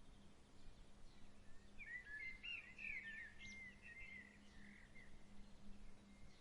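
A songbird sings a quick, twittering phrase of chirps and short gliding notes for about two seconds, starting a little under two seconds in. Underneath is a faint, even outdoor hiss and a steady low hum.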